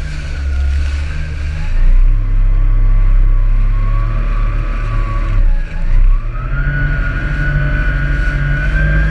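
Jet ski engine running at speed, its whine dropping briefly about halfway through and then climbing back up.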